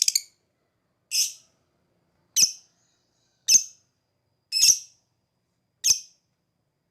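Lovebird calling: a fast rattling trill (ngekek) ends right at the start. It is followed by single short, sharp, high calls about once a second, five in all.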